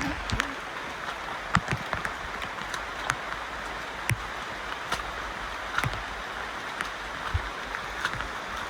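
Steady rush of flowing water, like a forest stream, with irregular light clicks and knocks about once a second.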